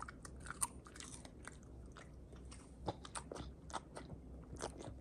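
A Staffordshire Bull Terrier chewing a crunchy dog treat: irregular, crisp crunches, a few of them louder.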